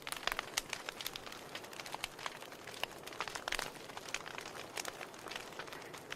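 Wood fire in a fireplace crackling: logs hissing steadily under frequent sharp, irregular pops and snaps, several a second.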